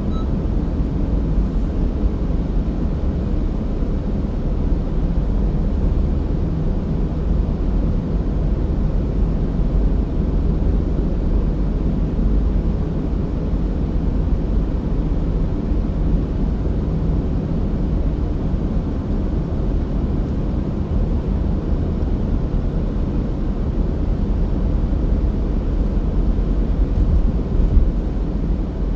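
Steady low rumble of a car's road and engine noise as it drives along, heard from inside the cabin, swelling slightly near the end.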